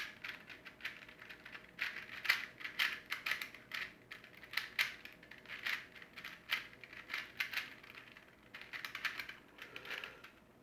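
Rubik's cube layers being turned by hand: quick, irregular plastic clicking and clacking.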